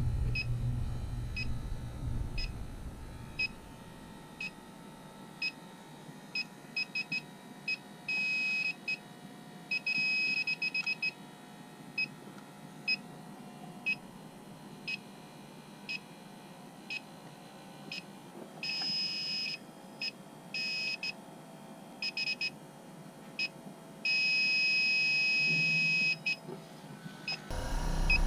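High-pitched electronic beeps from a small handheld instrument, coming singly at uneven intervals and sometimes in quick runs, with a few longer steady tones, the longest about two seconds near the end. A low rumble fades out in the first few seconds.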